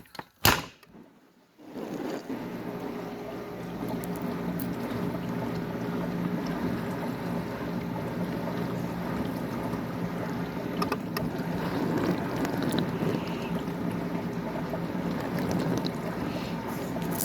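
Bosch Ecosense dishwasher door shut with a single thump about half a second in; after a short pause the wash cycle resumes about a second and a half in: the wash pump running with a steady hum and water spraying inside. The owner takes it as running normally, its earlier noise fault fixed.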